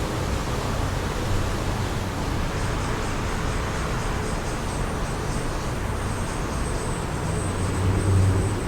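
Wind blowing with the steady rumble of distant road traffic, swelling near the end. A faint high thin whine enters about two and a half seconds in.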